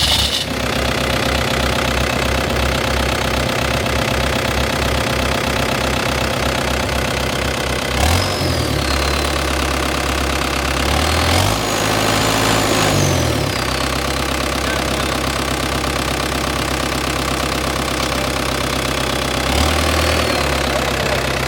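Farm tractor engine running steadily. It revs up about eight seconds in, rises and falls again around twelve seconds, and gives a short rev near the end.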